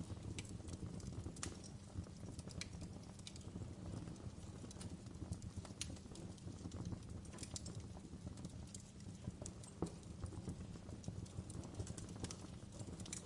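Wood campfire burning: a low steady rumble with irregular sharp crackles and pops from the burning wood.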